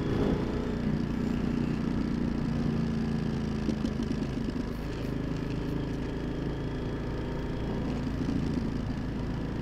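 Yamaha XT1200Z Super Tenere's parallel-twin engine running at a steady cruise, its pitch rising and falling slightly, over steady wind noise.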